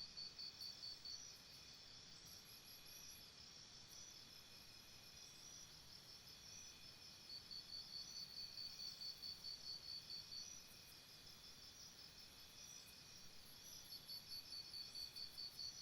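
Faint jungle insect chorus: a high, pulsed chirp at about five a second comes in bouts that stop and start a couple of times. Underneath runs a steady, layered high insect drone.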